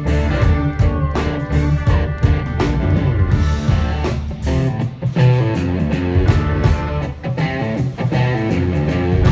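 Live band playing instrumental music at a sound check: guitar over bass and a drum kit keeping a steady beat, with no singing.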